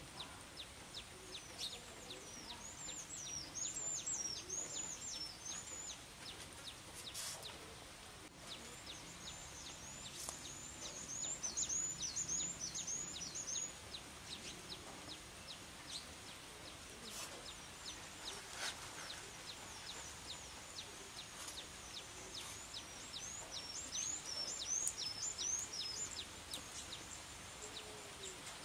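A songbird giving three long runs of rapid, high chirps over the soft steady hiss of light rain.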